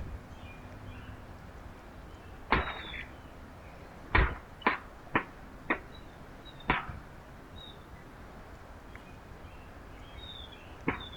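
A series of sharp knocks or taps, about seven, irregularly spaced with a cluster of quick ones in the middle, over faint, short high bird chirps.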